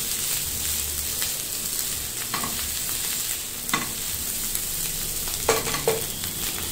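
Fried rice sizzling in a nonstick frying pan as a slotted spatula stirs and turns it: a steady frying hiss, with a few sharp scrapes and knocks of the spatula against the pan.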